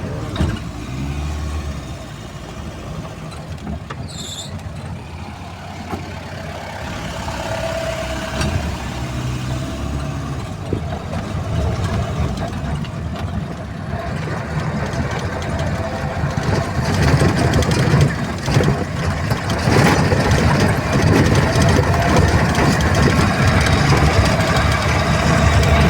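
Safari vehicle's engine running as it drives along a rough track, growing louder and more rattly about two-thirds of the way in.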